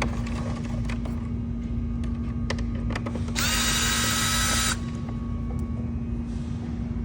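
Cordless drill/driver spinning up and running steadily for about a second and a half midway, driving out a Torx T20 screw. A steady low hum runs underneath, with a few light clicks.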